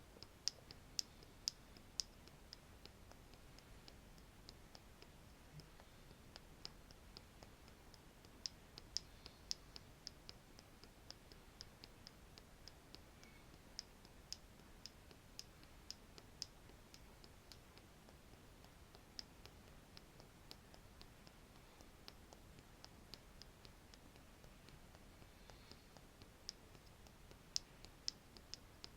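Light, irregular clicks of a wooden stick being tapped, sharp and high-pitched, with a few louder taps in clusters near the start, about a third of the way in, and near the end.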